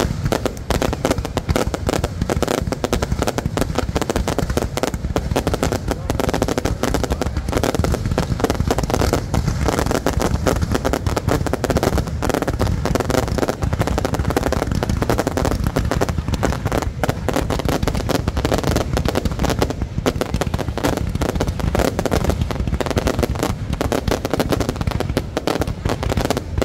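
Fireworks display: a continuous, rapid barrage of bangs and crackles that keeps up without a pause.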